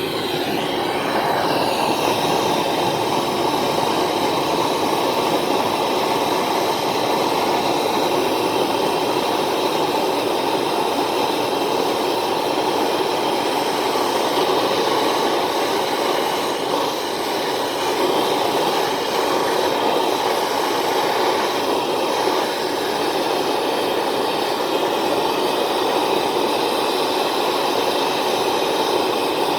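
Brazing torch flame burning with a steady rushing hiss while silver-brazing iron to copper.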